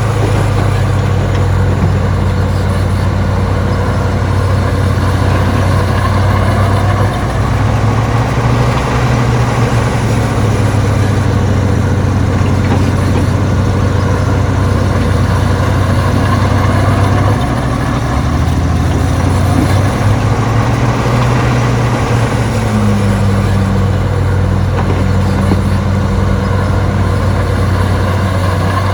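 Heavy diesel engine of earthmoving machinery running steadily under work, with a deep hum. It changes pitch slightly a few times along the way.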